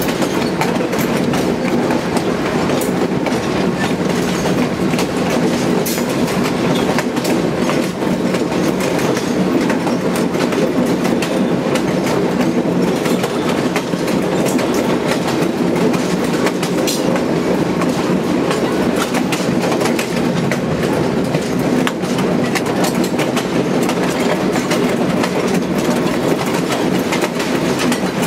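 Passenger train rolling along the track: a steady rumble of wheels on rails, with a continual clickety-clack of the wheels over rail joints.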